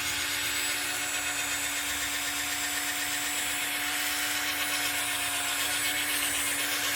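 Cordless drill running steadily at one speed, spinning a polishing pad on a plastic headlight lens, with its battery running low.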